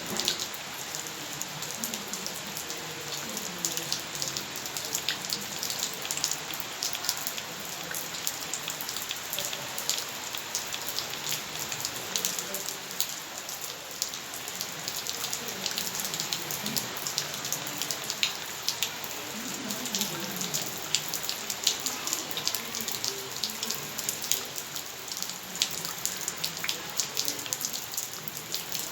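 Heavy rain falling steadily, with many sharp individual drop hits heard close by over the continuous hiss of the downpour.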